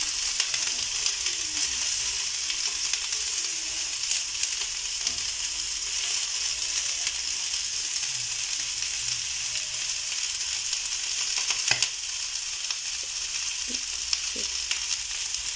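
Chicken mshikaki skewers sizzling in oil on a hot double-sided pan, a steady frying hiss. A single sharp knock sounds about three-quarters of the way through.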